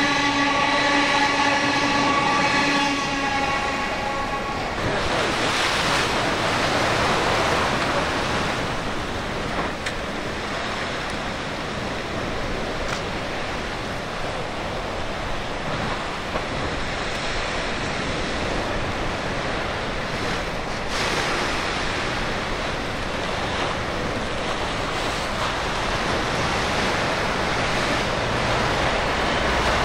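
A train running past on the sea-wall line. For the first few seconds there is a steady pitched tone with many overtones, which fades out about four seconds in. After that comes a long, steady rushing noise of the train on the rails, with surf mixed in.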